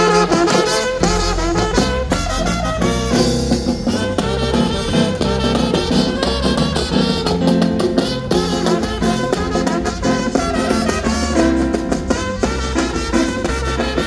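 Lively band music with brass horns and trumpets over a steady drum beat.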